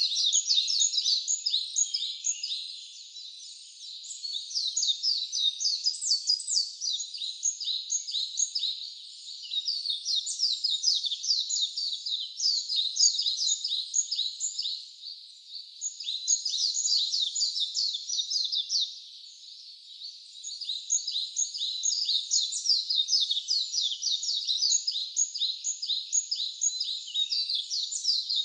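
Wild birds chirping in a dense, rapid, high-pitched chorus, with short lulls about three, fifteen and nineteen seconds in.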